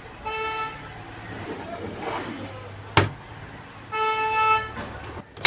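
A vehicle horn honking twice, each honk a steady pitched tone about half a second long, with a sharp click between the honks.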